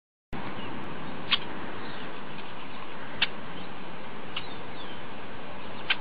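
Steady background hiss with short, high bird chirps, four in all, one every one to two seconds, and a few faint gliding notes.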